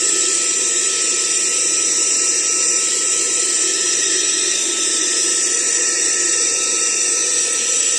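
Handheld Aspiring Windstorm 3 car vacuum cleaner running steadily at its higher, second power setting: a steady motor whine over the hiss of rushing air.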